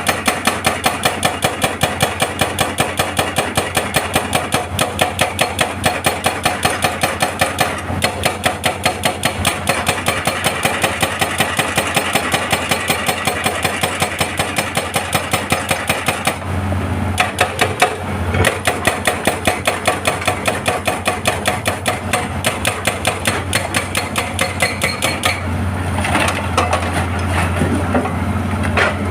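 Excavator-mounted hydraulic rock breaker hammering rock in rapid, even blows, about three or four a second, over the excavator's diesel engine. The hammering stops for about two seconds around the middle, leaving the engine alone, then resumes. Near the end the hammering gives way to the engine running louder.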